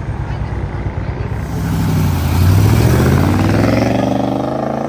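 A car's engine accelerating away, its exhaust note swelling about a second and a half in and climbing steadily in pitch, loudest around the middle.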